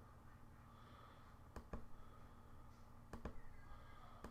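Near-silent room tone broken by two quick double clicks, about a second and a half apart.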